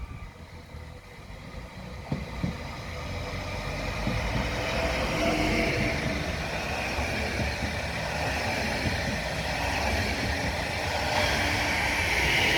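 Electric train running past on the line, its noise building over the first few seconds and then holding steady, with a faint whine above the rumble of the wheels.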